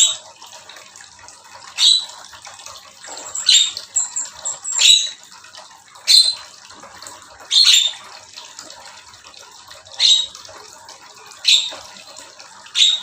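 Aviary birds calling: a sharp, short call repeated roughly every one and a half to two seconds, over a steady background hiss.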